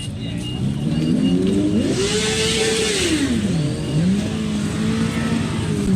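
Motorcycle engine revving: the pitch climbs and holds, drops sharply, then picks up again and runs steady.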